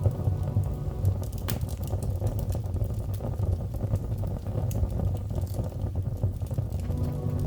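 Fire crackling in a fireplace: a steady low rumble with scattered sharp pops and snaps.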